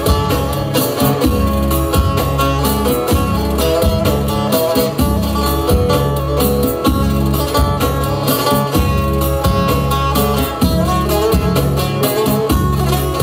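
Live band playing an instrumental passage of Turkish folk music: plucked strings over a steady bass and a regular drum beat.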